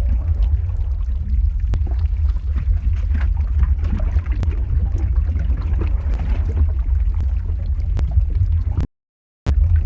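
Lava flow ambience sound effect: a steady deep rumble with scattered sharp crackles and pops. It cuts out completely for about half a second near the end, then resumes.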